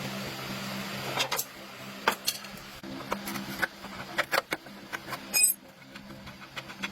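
Workshop sounds: a steady low mechanical hum with scattered clicks and metal knocks of hand tools, and a brief high metallic ring about five seconds in.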